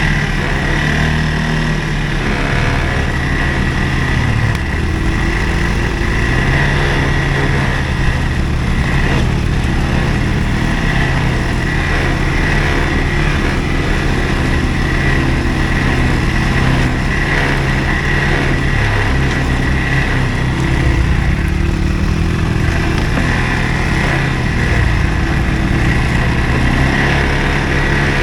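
CFMOTO ATV engine running steadily, its pitch shifting up and down a little as the throttle changes.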